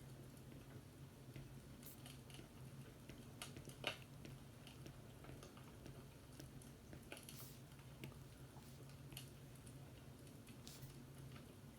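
Faint fireplace crackling: small pops and clicks at irregular intervals, with one sharper pop about four seconds in, over a low steady hum.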